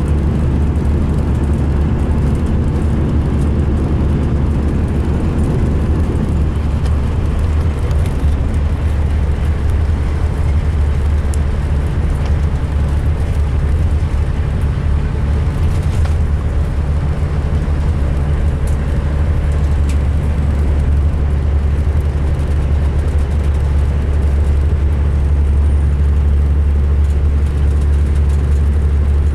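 The 2005 MCI D4500 coach's diesel engine running with a steady low rumble and road-type noise over it. The engine is a bit fuller in the middle range for the first six seconds or so, then settles. The uploader calls the coach's running rough.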